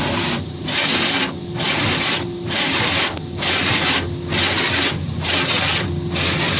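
Autec in-bay automatic car wash spraying water over a car in rhythmic surges, a little over one a second, with a steady machine hum between the surges.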